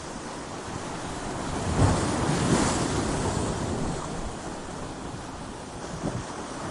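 Ocean waves breaking against coastal rocks: a wave surges in about two seconds in, crashes and washes back out over a few seconds, with a smaller surge near the end.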